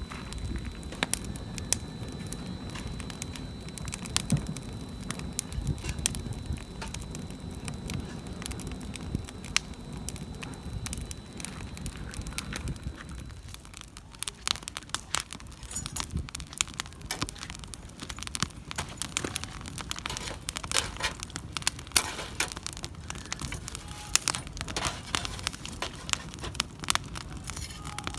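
Firewood crackling in a campfire, with frequent irregular sharp pops and snaps. A low rumble underneath drops away about halfway through.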